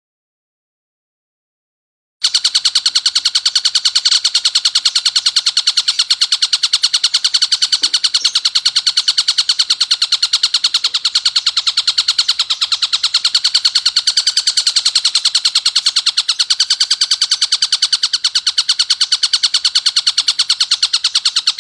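Tengkek buto kingfisher calling in a continuous, harsh, very rapid rattle of closely packed notes. The call starts about two seconds in, after a short silence.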